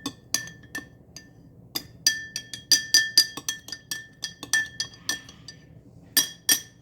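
A spoon clinking against a glass, presumably while stirring paint into water: scattered clinks, then a rapid run of ringing clinks at several a second, and two last clinks near the end.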